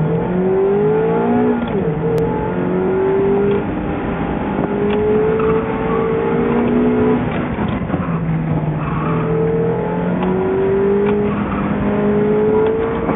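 Mazda MX-5 Miata's four-cylinder engine under hard driving through an autocross course, heard from inside the open-top cockpit. It revs up repeatedly and drops back between the rises as the car accelerates and slows for the cones.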